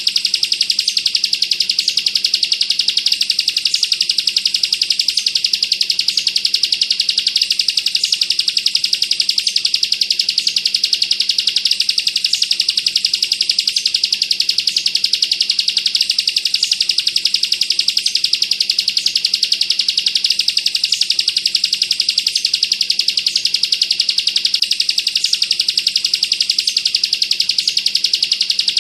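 Bar-winged prinia (ciblek) giving its rapid 'bren' song: a high, machine-gun-fast trill that runs on without a break, with a faint low hum beneath.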